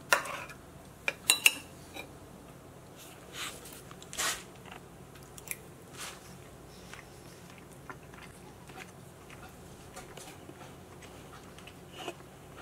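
A person chewing a mouthful of chicken in gravy, with soft, irregular mouth sounds. A few sharp clicks of a fork against a ceramic plate come in the first second and a half.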